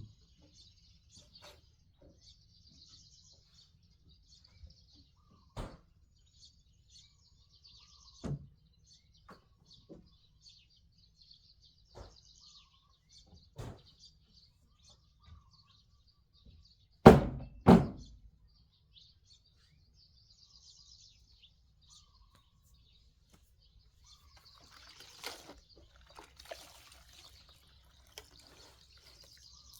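Scattered single knocks, with two loud thumps in quick succession a little past the middle and some rustling near the end, over faint birds chirping.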